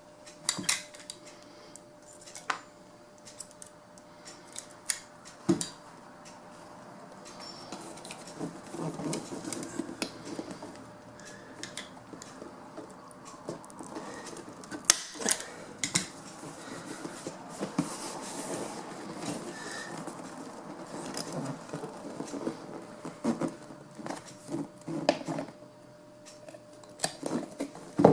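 Irregular metallic clicks and clacks from hand tools, a leather punch and a pop rivet gun, mixed with rustling and handling of the vinyl seat cover as holes are punched and the cover is riveted down.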